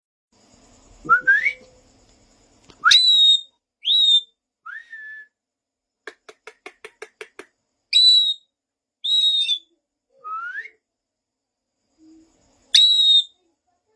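A pet parrot whistling: a string of short, loud whistles, most sliding up and then levelling off. About halfway through comes a quick run of rapid, clipped repeated notes.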